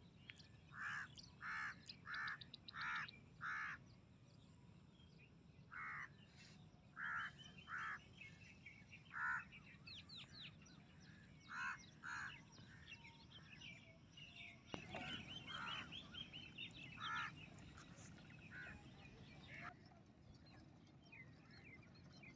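Birds calling: a run of five loud calls about half a second apart near the start, then scattered single and paired calls, with fainter high chirps from smaller birds in between. A faint steady low background noise runs underneath.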